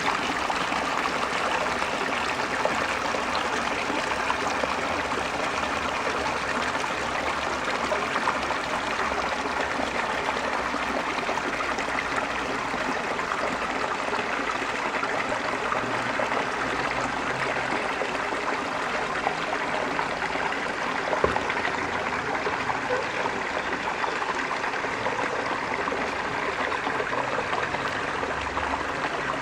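Mountain river running over rocks: a steady, unbroken rush of flowing water, with one faint click about two-thirds of the way through.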